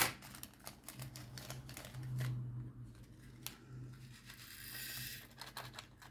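Clicks, taps and plastic rustling from handling bags and small plastic containers of diamond-painting crystals. A low hum swells in between about one and four and a half seconds in.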